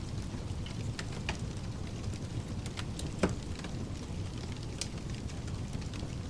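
Wood fire crackling, with sharp irregular pops, the loudest about three seconds in, over a steady low-heavy pink-noise hiss.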